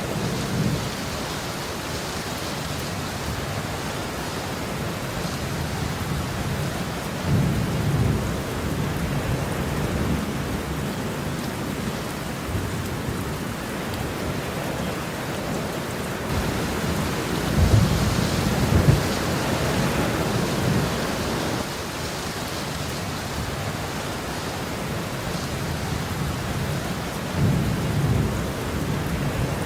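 Steady rain falling, with low rolls of thunder rumbling three times, the loudest about two-thirds of the way through.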